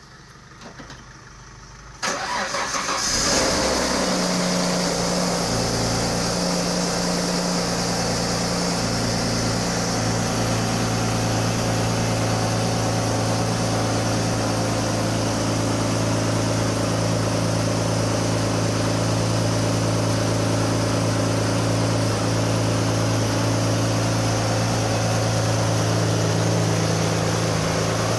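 Alfa Romeo 156's 2.5-litre Busso V6 starting up. About two seconds in, the starter cranks briefly, then the engine catches with a short flare and settles into a steady idle.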